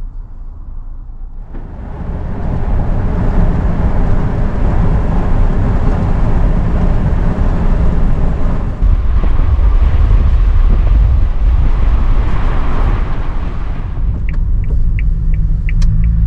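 Strong wind blowing and buffeting the microphone, a rushing roar that comes up sharply about a second and a half in, heavy in the low end. Near the end a quick regular ticking joins it, about three ticks a second.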